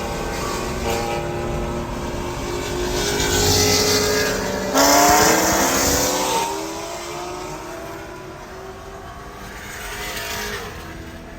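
High-horsepower race car engine at full throttle. It builds, then comes in loudest and suddenly about five seconds in, and its pitch falls as it fades away. A smaller swell of engine sound follows near the end.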